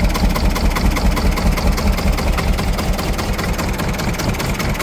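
Deutz two-cylinder air-cooled diesel engine idling steadily, with a fast, even diesel clatter.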